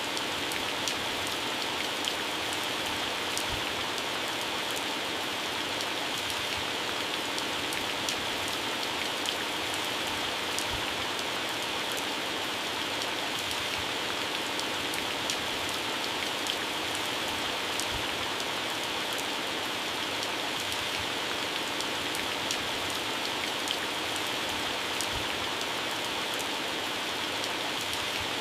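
Heavy rain falling steadily on plants and grass, with individual drops ticking on leaves over a constant hiss.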